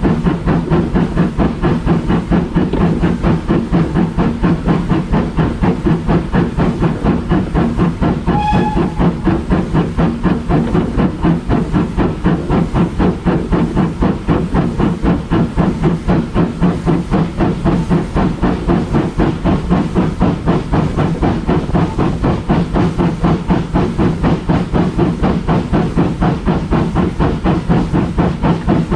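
Railway locomotive running with a fast, even rhythmic beat that keeps up steadily throughout. A short high tone sounds once about eight seconds in.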